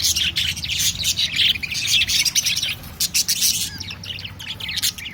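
A flock of budgerigars chirping and chattering all together in their cage, many quick overlapping calls with a few harsher squawks, over a steady low hum.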